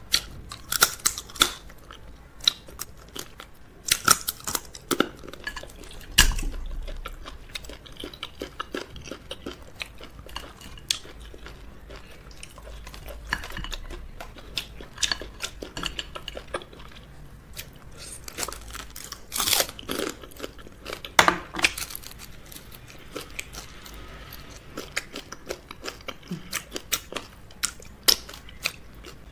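Close-miked eating of fufu and okra soup with crab: steady chewing and biting with many sharp crunches and clicks, a few of them much louder than the rest, scattered through.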